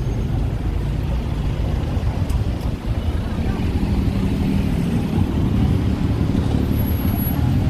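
Steady low rumble of road traffic and vehicle engines, with no distinct single event.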